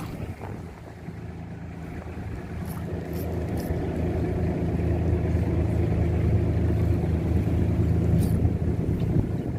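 Fishing boat's engine running, growing louder over the first several seconds and then holding steady.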